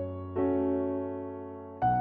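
Slow, soft classical piano music: held chords that die away, with a new chord struck about a third of a second in and another near the end.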